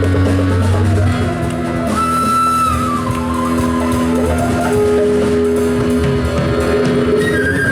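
Live band music without vocals: long held melody notes over a steady low bass line.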